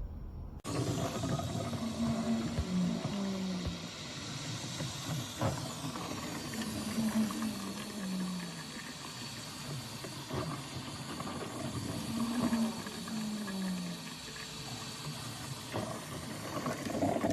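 Cuisinart SS-16 drip coffee maker brewing: a steady hiss of steam and hot water that starts suddenly about half a second in, with low gurgles recurring about every five seconds.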